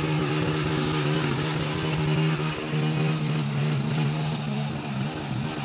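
Edger's small engine running steadily at speed while its blade cuts into packed soil over a buried sidewalk, with a dense gritty hiss over the engine note. The engine note dips slightly a few times in the second half.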